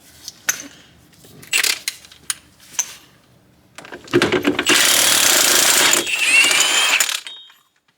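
Impact wrench hammering an axle nut loose through a 36mm socket for about three seconds, after a few metal clinks as the socket is fitted onto the nut.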